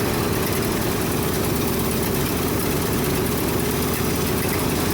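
Carbureted engine of a 1976 Ford F-600 dump truck idling steadily, with a vacuum leak that the owners take to be the cause of its poor running.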